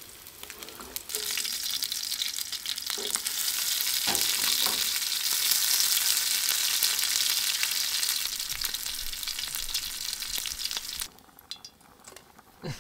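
Panko-coated perch fillets sizzling as they fry in oil in a pan. The sizzle swells about a second in and cuts off sharply near the end, with a few light knocks partway through.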